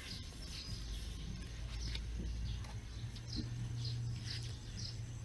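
Faint bird chirps, short falling notes repeated irregularly, over a low steady hum.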